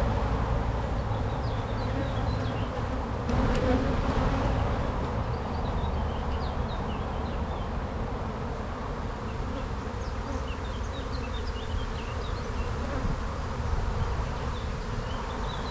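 A mass of honey bees buzzing around an open hive as its frames are inspected: a dense, steady hum.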